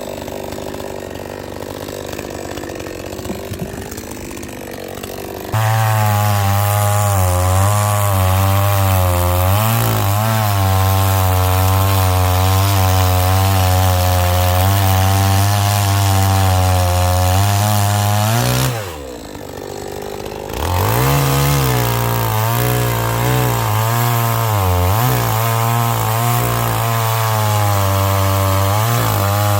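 Chainsaw running quietly, then revving up sharply about five seconds in and cutting into a log, holding a steady high-revving pitch under load. About nineteen seconds in it drops off for a moment, then revs back up and keeps cutting.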